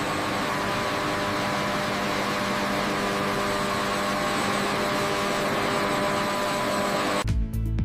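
Steady mechanical rushing noise with a faint hum, like a fan or air-handling machinery, holding an even level. It cuts off abruptly near the end as music starts.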